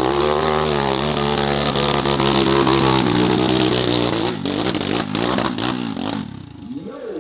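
Dirt bike engine running at high, steady revs, then the revs drop and waver about four seconds in, with several sharp knocks before the sound fades.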